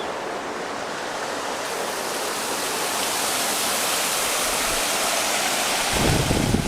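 Large volume of water rushing steadily out of a reservoir drain, growing slightly louder, with a brief low rumble near the end.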